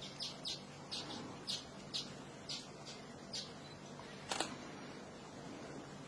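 A bird calling in short, high chirps, roughly two a second, with a louder, sharper click about four seconds in.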